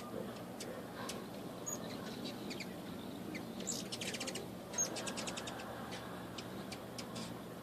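Several hummingbirds at a feeder chipping, with scattered high short calls and a quick rattling chatter of ticks about four seconds in.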